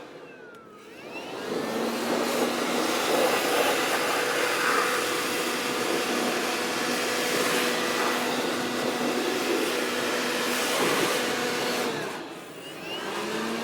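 Leaf blower running at high throttle, a steady rushing blast with a whine, blowing debris off a mini skid steer's tracks. It revs up about a second in and eases off near the end.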